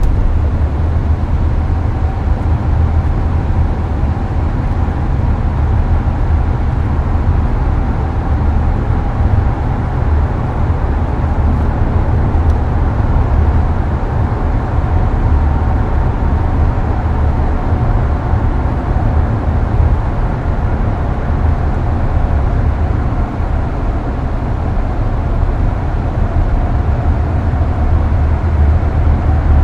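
Hyundai Avante (Elantra) cruising on a highway, heard from inside the cabin: a steady low road-and-engine rumble with the air-conditioning fan blowing underneath, a faint even hum on top.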